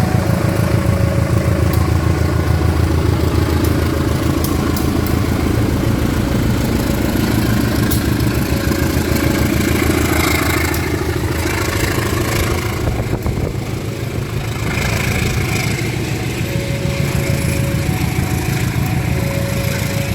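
Diesel locomotive engine running loud and steady, the roar of the locomotive getting under way after being held at a home signal. It dips slightly about two-thirds of the way through.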